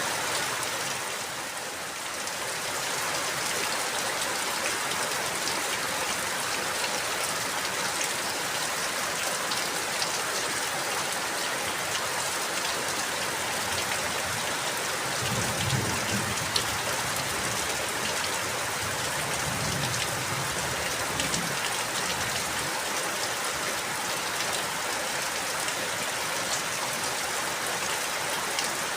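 Steady rain falling, an even hiss with the tick of single drops. A low rumble comes in twice around the middle.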